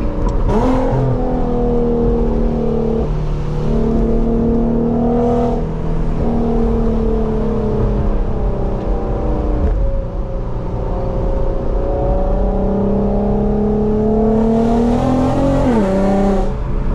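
Nissan VQ V6 engine running under way, its pitch holding fairly steady with small shifts and a brief rise in revs about half a second in and again near the end.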